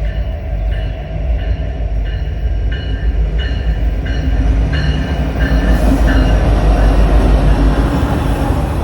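A train passing with a heavy, steady low rumble that grows louder over the last few seconds. Short ringing tones repeat about every two-thirds of a second for most of the first six seconds.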